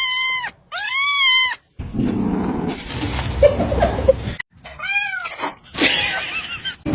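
Kitten meowing in loud, high calls, each rising then falling in pitch: one at the start, another about a second in and another about five seconds in. Between the calls there is a noisy stretch of a couple of seconds.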